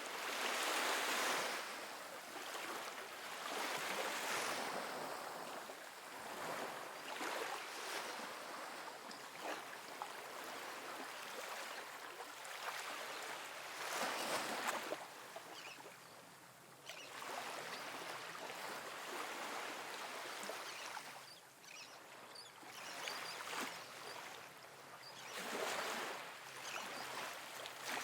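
Small ocean waves breaking and washing up a sandy beach: a steady hiss that swells with each wave, the strongest surges about a second in, around four seconds, midway and near the end.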